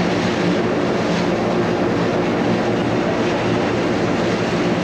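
Electric cog railway train running: a steady mechanical hum over a continuous rumble.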